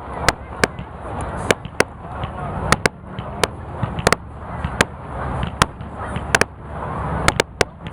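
Fireworks display going off: sharp, irregular bangs and cracks, a few a second at times, over a continuous noisy rumble.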